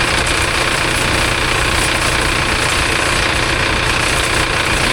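Tractor diesel engine idling steadily, left running at idle after a water wash.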